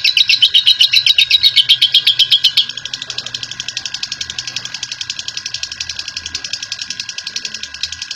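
Lovebird giving a long 'ngekek' chatter: a fast, even run of shrill chirps, about ten a second, that keeps going unbroken and drops to a softer level about two and a half seconds in.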